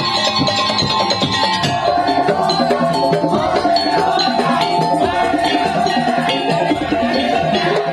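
Madurese tong-tong (daul) ensemble playing: dense, fast rhythmic percussion with a sustained melody line that enters about two seconds in.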